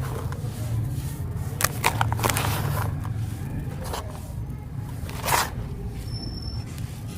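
Clumps of red sand crumbling with crisp crunches and crackles in short clusters, the loudest about five seconds in, over a steady low hum.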